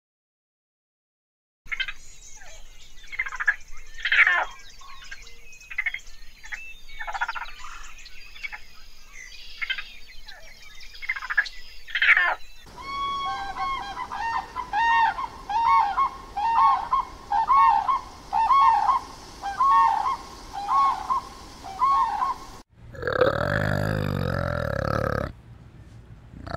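A brief silence, then a busy stretch of short, varied chirping calls. About halfway through, red-crowned cranes call over and over, a dozen or so rising-and-falling calls in a steady rhythm. Near the end a louder, lower-pitched animal call comes in.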